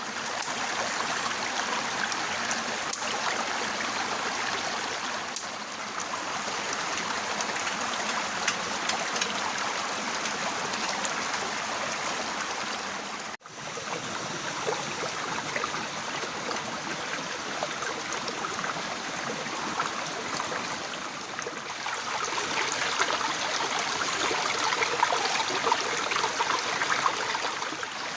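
Heavy rain falling steadily, a dense hiss with fine patter. It cuts out for an instant about 13 seconds in and grows louder near 22 seconds.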